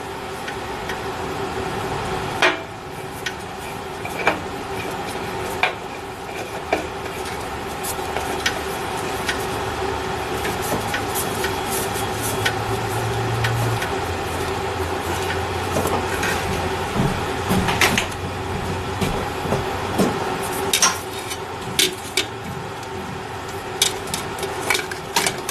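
Scattered light metallic clinks and knocks from parts and tools being handled while a new oil filter is fitted on a big-block Ford engine, over a steady hum.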